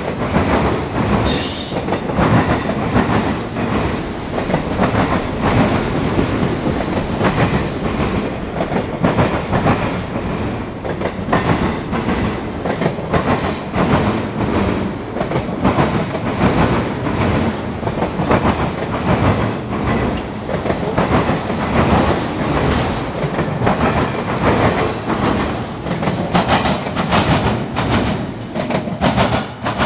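Freight train of autorack cars rolling past, steel wheels clicking over rail joints in a steady clickety-clack over a constant rumble.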